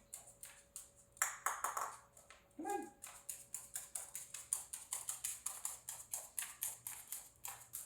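Rapid light clicking taps, several a second, from an Eclectus parrot on a hard surface as it brings back its fetch toy, with a short rustle about a second in and a brief call near three seconds.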